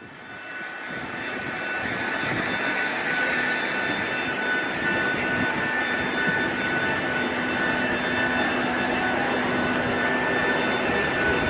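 Steady jet aircraft noise heard inside a Boeing 737-800 cabin, with a thin high whine over it. It fades in over the first second or two, then holds level.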